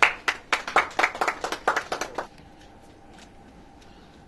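A short burst of hand clapping: a string of sharp, separate claps that stops a little over two seconds in.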